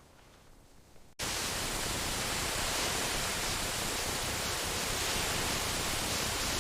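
Heavy rain: a steady, even hiss of downpour that cuts in abruptly about a second in.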